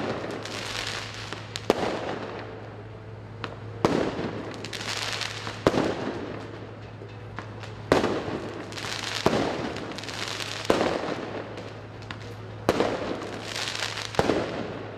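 Fireworks going off at close range: a sharp bang every second or two, each followed by a crackling fizz, over a steady low hum.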